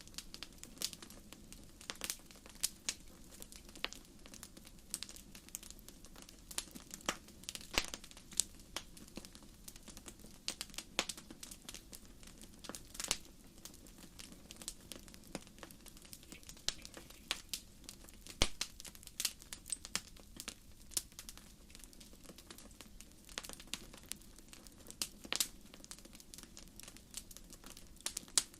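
Wood fire burning: firewood crackles and pops in sharp, irregular snaps, some louder than others, over a low, steady rush of flame.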